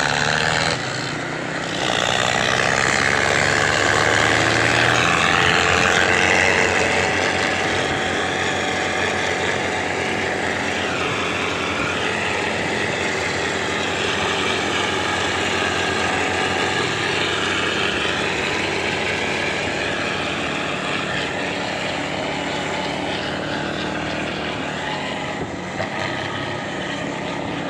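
Sonalika and Farmtrac tractors' diesel engines running hard at high revs, the engine note rising and falling a little in the first few seconds and then holding steady.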